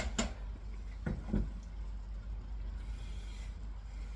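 Steady low hum with a sharp click at the start and two soft short knocks about a second in.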